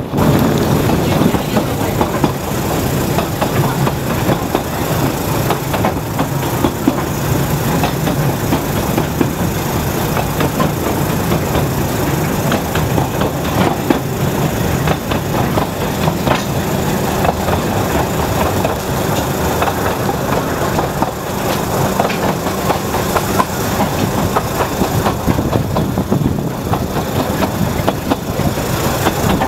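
Narrow gauge train carriage running along the track, heard from aboard: a steady rumble with a dense rattle and clatter of the wheels over the rails.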